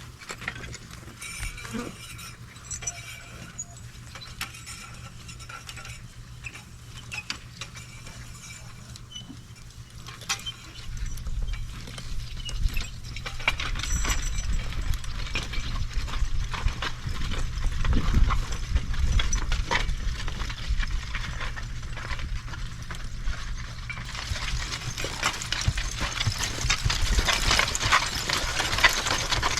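Percheron horse pulling a horse-drawn garden cultivator: hoof steps with clinks of harness and metal, and scraping in the soil. It grows louder about eleven seconds in, when a low rumble joins.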